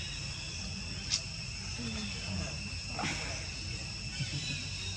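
Steady high-pitched chirring of insects, with a sharp click about a second in and another around three seconds in.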